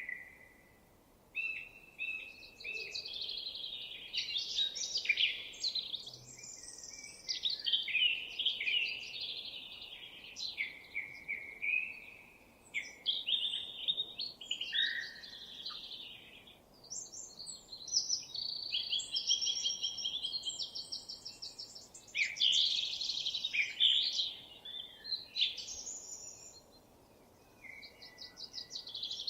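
Songbirds singing, with a steady stream of varied high-pitched phrases and rapid trills that overlap one another. There are short lulls about a second in and near the end.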